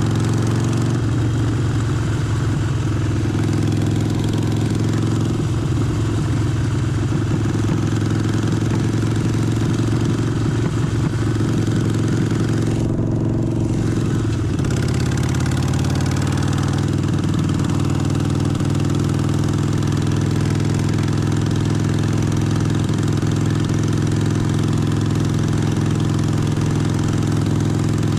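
Harley-Davidson Forty-Eight's air-cooled 1200 cc V-twin running at low revs. Its note wavers a little at first and then holds steady, with a brief drop in the higher rushing noise about halfway through.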